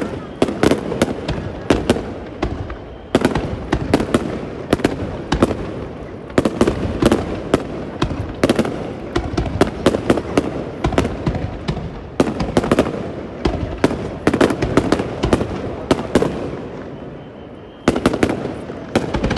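Fireworks display: rapid salvos of exploding shells, many sharp bangs packed close together, each salvo followed by a short gap before the next.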